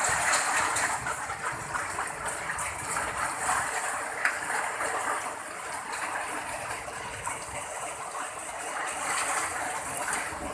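Heavy rain pouring down in a thunderstorm, a dense steady rushing hiss that swells and eases a little.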